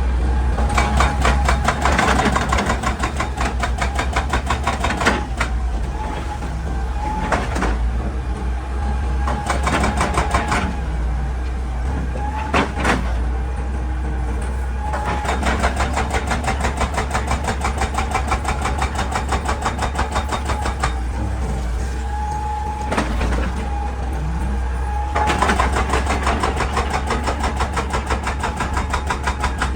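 Hydraulic breaker on a Hitachi EX200 excavator hammering rock in rapid blows. The blows come in several bursts of a few seconds each, over the steady drone of the excavator's engine.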